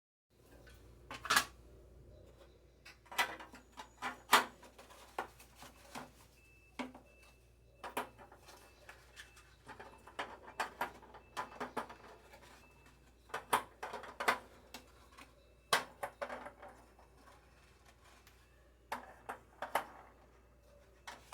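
Hard acrylic food containers being handled and set down: irregular sharp clicks and knocks of plastic on plastic and shelving.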